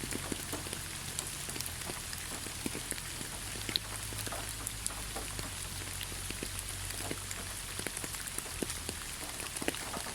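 Steady rainfall in a forest: an even hiss with many separate drops ticking on leaves and nearby surfaces, over a low constant rumble.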